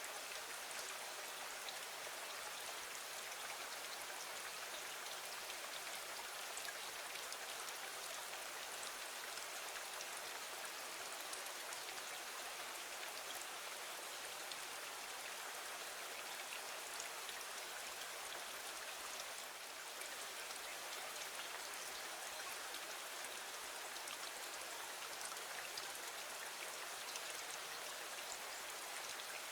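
Steady rain falling against a window: an even hiss with scattered faint ticks of drops.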